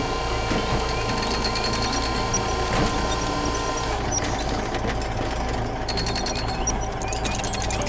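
Construction machinery running: a steady low engine drone with a fast mechanical clatter over it. The high rattling thins out about four seconds in.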